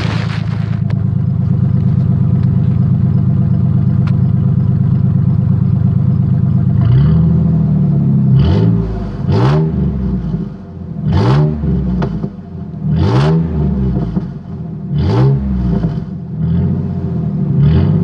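1998 Ford F-150's V6 engine heard through its exhaust. It idles steadily, then from about seven seconds in is blipped up and let fall back again and again, roughly every one to two seconds.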